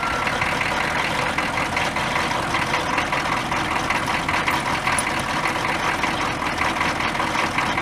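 Old pickup truck's engine idling steadily. It has just been restarted and is left running to warm up and recharge its batteries.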